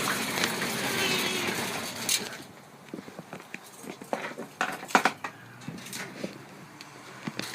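Birds chirping together in a busy chatter that dies away after about two seconds, followed by scattered sharp clicks and taps.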